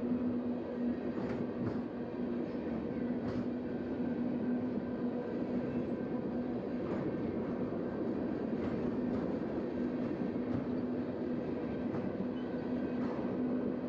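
Freight train cars rolling over a road grade crossing: a steady rumble with a hum underneath, and scattered knocks as the wheels pass over the crossing.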